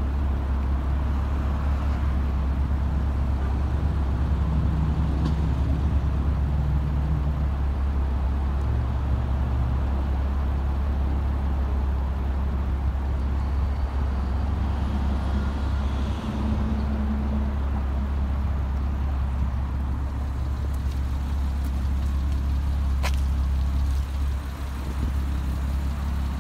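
A 2007 Porsche Cayman S's mid-mounted 3.4-litre flat-six idling steadily with a deep, even hum.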